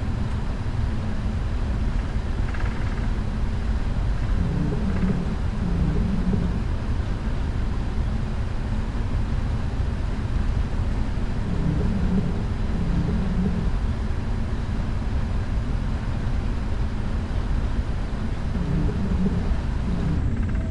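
Steady low rumble inside a Boeing 777-300ER's cabin on the ground before takeoff, from the running engines and the cabin air, with faint muffled sounds coming and going beneath it.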